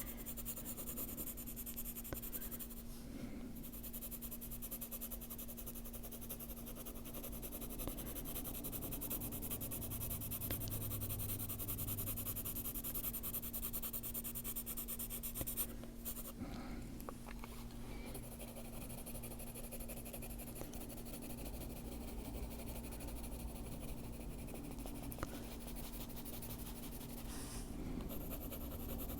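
Polychromos colored pencil shading on paper: a soft, continuous scratching, over a faint steady hum.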